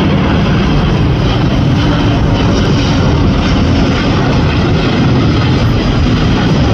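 Engines of a departing heavy jet airliner at takeoff power: a loud, steady, deep rumble with a hiss above it.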